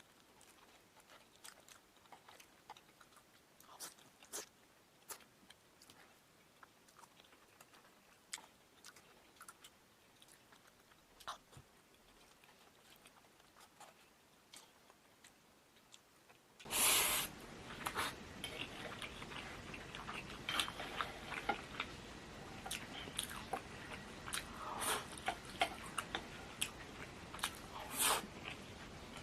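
Close-up chewing and biting of crispy starch-coated fried eggplant in minced meat sauce: scattered crunchy clicks, faint and sparse at first, then louder and denser over a steady hiss from about two-thirds in.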